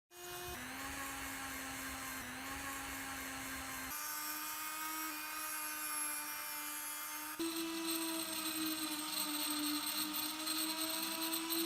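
Small electric power tool running steadily, its motor hum jumping to a slightly different pitch at a few abrupt joins.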